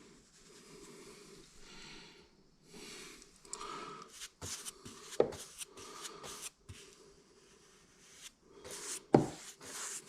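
Short, irregular rubbing and scraping strokes with a few knocks, two of them louder about five and nine seconds in: handling and brushing sounds of painting wood by hand.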